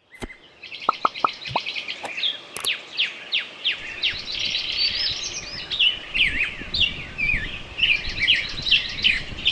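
Small songbirds chirping and twittering in a busy chorus: fast runs of repeated chirps and quick downward-sweeping whistles, overlapping without a break. A few short clicks sound in the first three seconds, and a low rumble joins about four seconds in.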